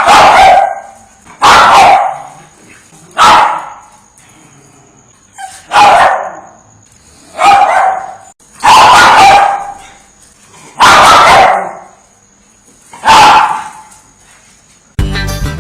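A dog barking: about eight loud, separate barks, one every second and a half to two seconds, some of them drawn out. Guitar music cuts in suddenly near the end.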